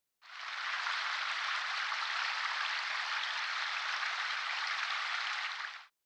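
A steady, even hiss, like rain or driven snow on a surface, that fades in and fades out.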